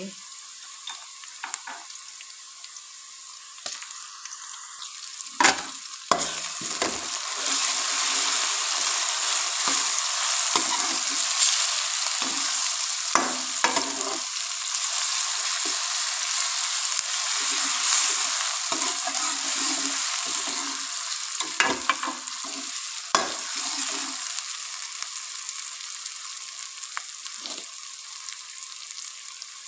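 Ginger, garlic and green-chilli paste sizzling in hot oil with golden-fried onions, stirred with a metal spoon that scrapes and knocks against the pan. The sizzle grows louder about six seconds in as the stirring starts, and eases off toward the end.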